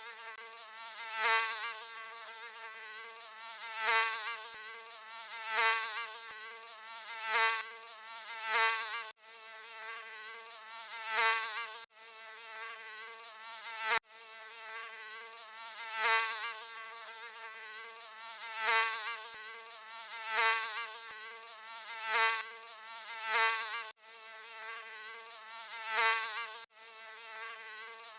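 Mosquito in flight, a whining buzz with a wavering pitch that swells and fades every second or two, as if passing close by the ear. The buzz cuts out for an instant a few times.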